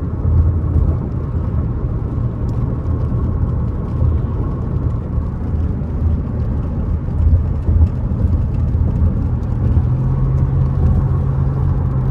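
Steady low rumble of a car running, heard from inside the cabin, with a steady hum joining about ten seconds in.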